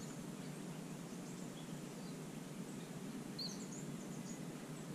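Small birds twittering in bushland: a few faint, short, high chirps, the clearest about three and a half seconds in, over a steady low background hum.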